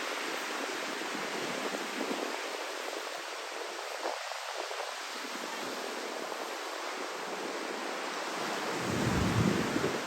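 Steady rush of typhoon wind and surf, with wind buffeting the microphone; a louder low rumble swells near the end.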